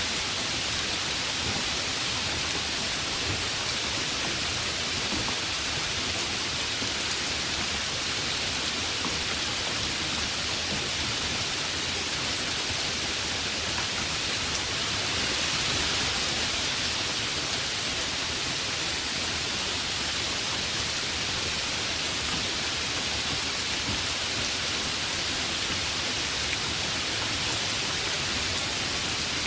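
Heavy rain falling steadily, a dense even hiss of drops with a slight swell about halfway through.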